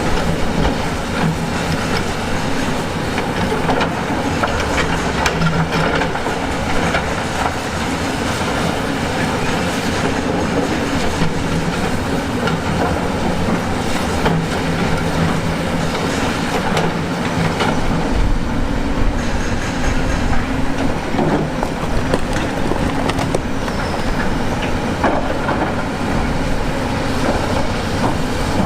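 Heavy tracked construction machine working: diesel engine running, with continuous metal clanking and scraping of steel on rock. A deeper engine rumble comes in about two-thirds of the way through.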